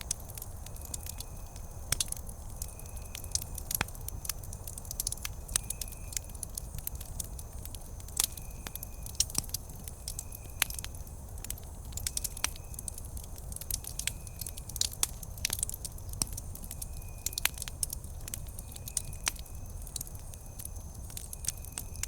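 Wood campfire crackling, with frequent irregular sharp snaps and pops over a low steady hiss of the flames. A faint high tone repeats in short pulses about once a second behind it.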